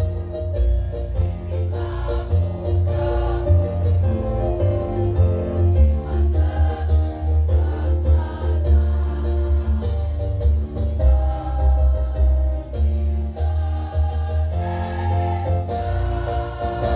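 Women's choir singing over amplified instrumental accompaniment with a heavy bass.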